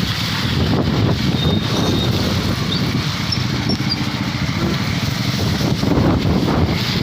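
A motor vehicle running, with a steady low rumble.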